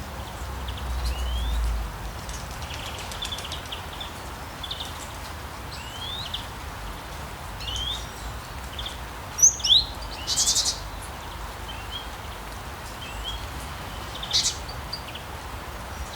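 Wild birds chirping: short rising calls scattered over a steady outdoor hiss, the loudest calls about halfway through. A low rumble in the first two seconds.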